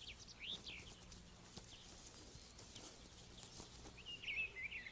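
Faint forest ambience with a few scattered high songbird chirps, and a short warbling bird phrase about four seconds in.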